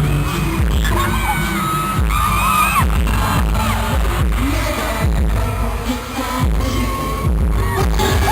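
Live K-pop dance track played loud over a concert PA, with singing and a heavy, booming bass beat that distorts the recording.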